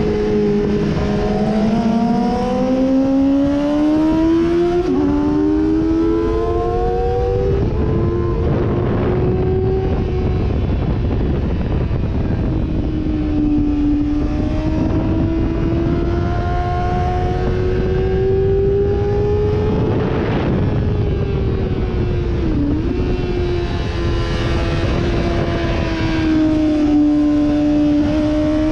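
Sportbike engine under way at track speed, its pitch climbing through the gears over the first several seconds with brief drops at the shifts, then holding fairly steady with slow rises and falls. Constant wind rush runs underneath.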